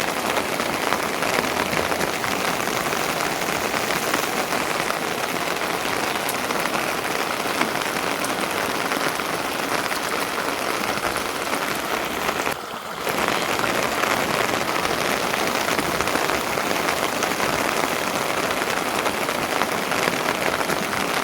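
Steady rain falling, a dense even patter, broken by a brief drop in level about two-thirds of the way through.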